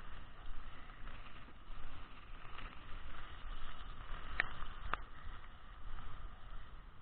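Steady hiss of heavy rain with a low rumble of wind on the microphone, and two short clicks about four and a half and five seconds in.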